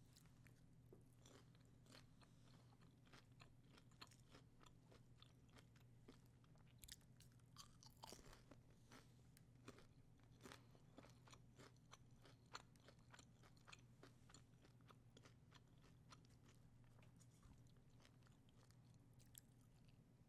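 Close-miked chewing of a crunchy hard-shell taco: many sharp, irregular crackling crunches, thickest through the middle, over a faint steady low hum.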